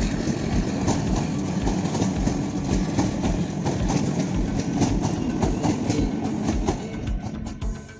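Passenger train coaches rolling past on the track, with a steady heavy rumble and wheels clicking over the rail joints. The sound drops away just before the end.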